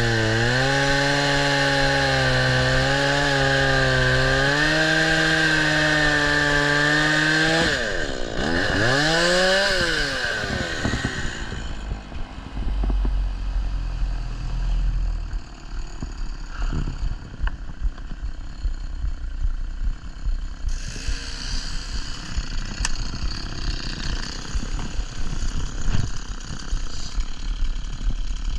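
Chainsaw running at high revs, cutting steadily for about seven and a half seconds. Its pitch then drops and swings back up once before the engine sound fades out. After that come irregular knocks and rustling noise.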